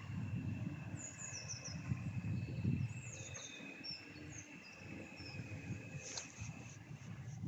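Electric multiple-unit train running through the station: a steady low rumble with a thin steady whine held above it, and birds chirping over the top. A sharp click comes about six seconds in.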